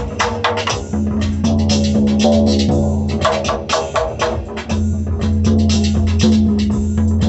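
Music played on a drum: fast, ringing, pitched strikes over a steady low drone.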